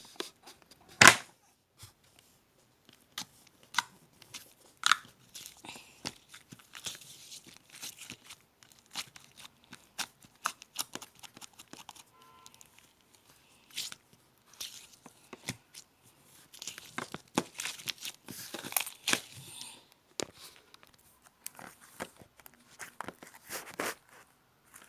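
Meringue cookies being crushed into cream slime by hand: irregular crunching and crackling, with one loud crack about a second in and denser crackling near the end.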